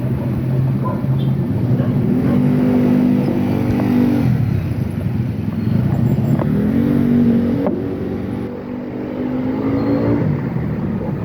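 Road traffic: a motor vehicle engine rises in pitch as it accelerates, twice, over a steady low rumble of road noise.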